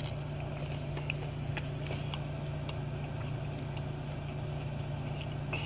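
Steady low hum of a car idling, heard inside the cabin, with faint scattered clicks of a man chewing a bite of crispy chicken strips in bread.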